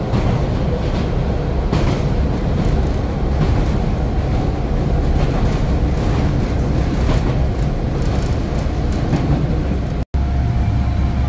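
A diesel train running on the rails with a steady low rumble and a faint knock every couple of seconds. The sound breaks off for an instant near the end.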